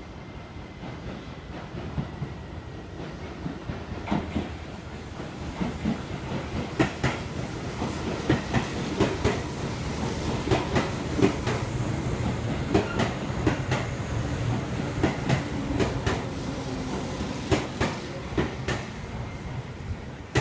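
Tobu 10000 series electric train arriving alongside the platform: a steady rumble of wheels on rail that grows louder, with a run of sharp clacks as the wheels cross rail joints, starting about four seconds in.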